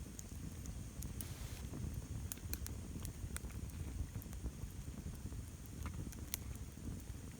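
Wood campfire in a stone ring, crackling with scattered sharp pops over a low, steady rumble.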